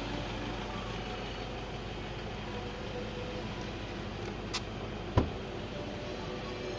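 A steady low rumbling noise, with a sharp knock about five seconds in and a fainter click just before it.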